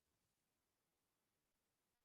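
Near silence: digital silence or a muted line, with no audible sound.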